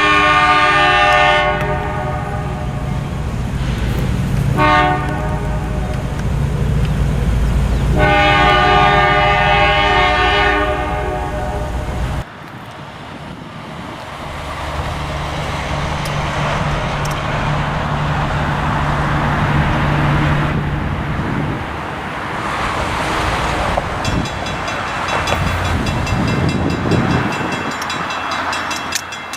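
Diesel freight locomotive horn sounding a grade-crossing signal: a long blast, a short one, then another long one. After a sudden cut, the locomotives run past with a steady low engine drone and the rumble of rolling freight cars.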